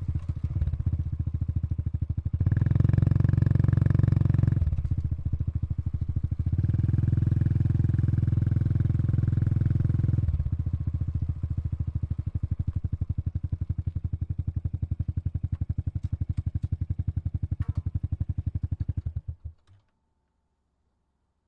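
Honda Super Cub 110 Pro's single-cylinder four-stroke engine and exhaust idling, revved twice (briefly, then for a few seconds longer), then idling again before it is switched off and stops about three-quarters of the way in.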